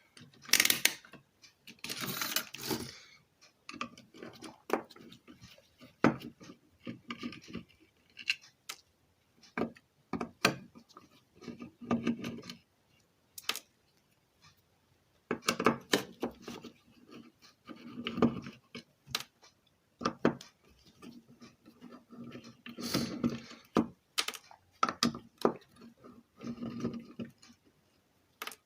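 Irregular clicks, taps and short scraping sounds of hand tools and a stereo amplifier circuit board being handled on a workbench as a power transistor is desoldered and removed for testing.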